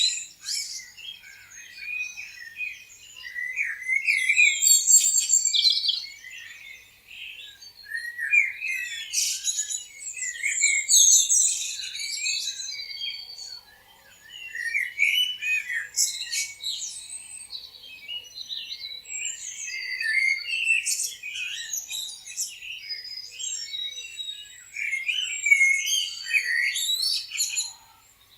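Several songbirds chirping, trilling and whistling at once in a dense chorus of short high calls that swells and thins every few seconds.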